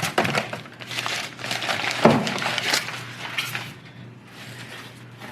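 Handling noises as the new ring-and-pinion gear is picked up and turned over: a run of rustling and light clicks with one sharper knock about two seconds in, dying away after about three and a half seconds. A steady low hum runs underneath.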